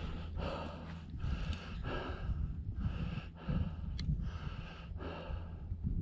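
A person breathing hard, a little more than one breath a second, over a steady low rumble of wind on the microphone.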